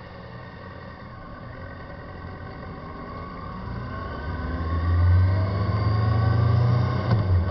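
Yamaha FZ6 S2 motorcycle gaining speed: a whine climbs steadily in pitch and the sound grows much louder from about halfway, over a strong low hum. It carries the front-wheel noise that the owner puts down to a wheel bearing problem.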